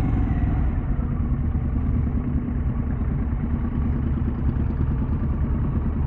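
Harley-Davidson Pan America's V-twin engine running steadily under the rider at low road speed.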